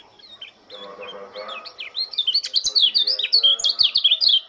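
A pleci Lombok, a white-eye, singing a fast, high, twittering song of short chirps. It starts sparsely and becomes a dense, loud warble from about halfway through. Fainter, lower calls sound underneath.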